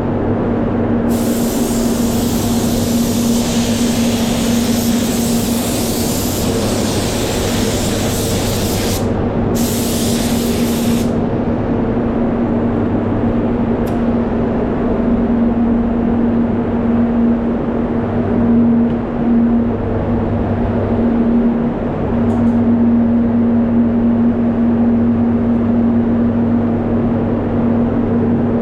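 Spray gun hissing as epoxy primer is sprayed, with the air cutting out briefly about nine seconds in and stopping about eleven seconds in, over a steady machine hum.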